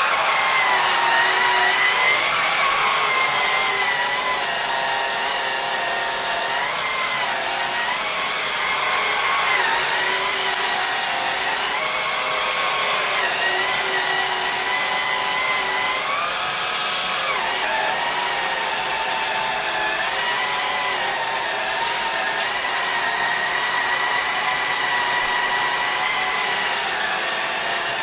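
Small cordless sweeper vacuum's motor running with a steady high whine, its pitch dipping briefly several times and recovering.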